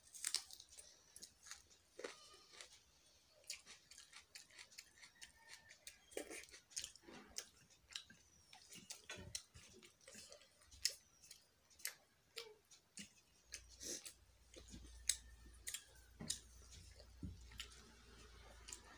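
Faint close-up chewing and mouth sounds of a person eating rice by hand, with irregular soft clicks and smacks, and fingers working the rice on a metal plate.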